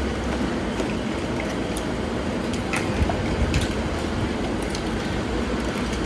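Steady low engine rumble, with scattered light clicks and knocks over it.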